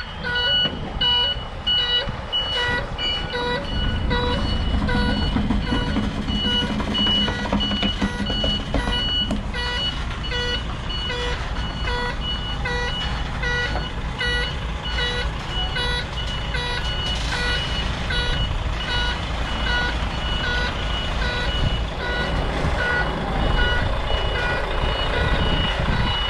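Container truck's reversing alarm beeping steadily, about two beeps a second, over its diesel engine, which picks up under load about four seconds in as the rig backs up.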